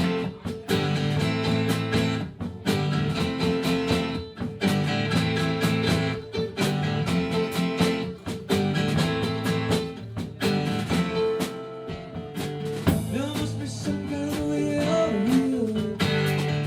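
Live band playing an instrumental passage: strummed guitars in a steady rhythm with drums, and sliding notes over the top in the last few seconds.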